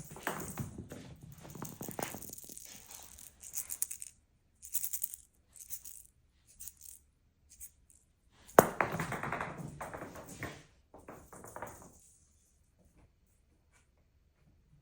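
A cat's toy ball rattling in irregular bursts as the cat bats it around, with one sharp knock about eight and a half seconds in, the loudest sound. It falls quiet for the last few seconds.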